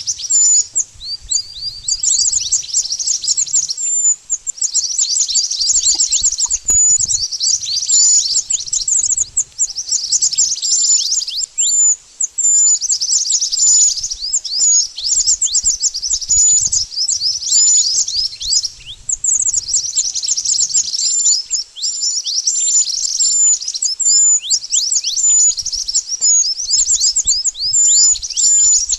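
Mantenan bird calling: rapid, high-pitched chirps made of quick falling notes, in bursts of a second or two that repeat over and over, with short thin notes in between.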